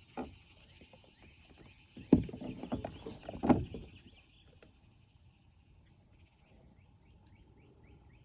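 Crickets or other insects buzzing steadily on one high note. A few sharp knocks and thumps come about two seconds in and again about three and a half seconds in, handling noise in the kayak.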